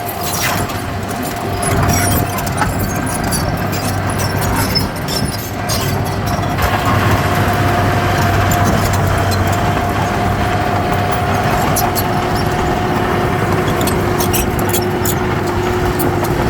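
Heavy diesel earthmoving machinery running steadily under load, with a continuous high whine over the engine noise and scattered sharp clicks and clanks.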